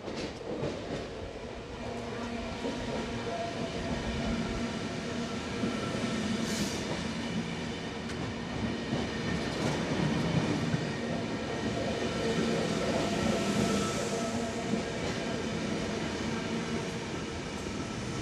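Double-deck electric passenger train running along the platform close by: a steady rumble of wheels on rail with a motor hum, growing louder over the first few seconds.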